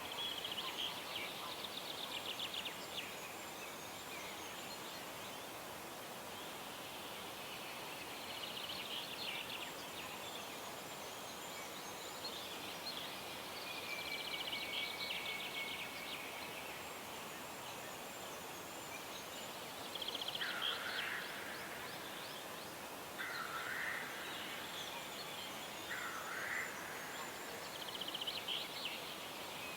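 Songbirds singing at dawn: repeated short, rapid trilled phrases every few seconds, joined from about two-thirds of the way through by a second bird giving short lower phrases, over a faint steady hiss.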